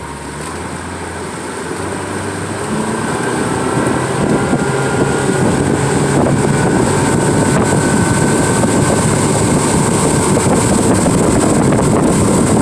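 Tour boat under way with its motor running, getting louder over the first few seconds as the boat picks up speed, then holding steady, with wind buffeting the microphone.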